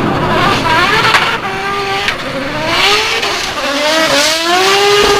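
Toyota Supra MK5 engine revving hard while drifting. The pitch climbs and falls back several times, with a sharp crack about a second in, over the hiss of squealing tyres.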